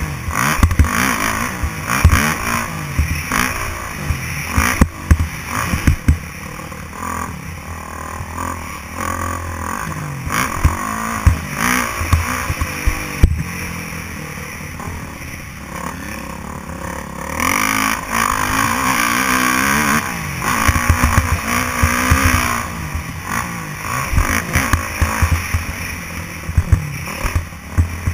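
Motocross dirt bike engine revving up and down repeatedly as it rides, with frequent sharp knocks and rattles.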